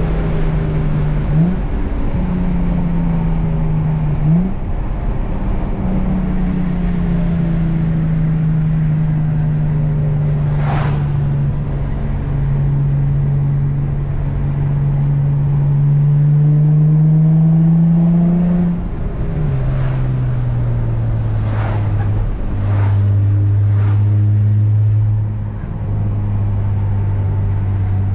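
Infiniti G35 coupe's VQ V6 engine and Z1 M Spec dual exhaust droning under way, with quick pitch changes at gear shifts in the first few seconds. A long steady pull follows, rising slowly, then the pitch drops to a lower steady drone about two-thirds of the way through. A few brief sharp sounds cut in over the drone.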